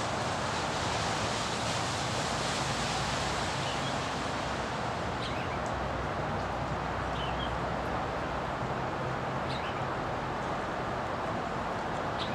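Steady outdoor background hiss with about four short, faint bird chirps, spaced a couple of seconds apart from about five seconds in.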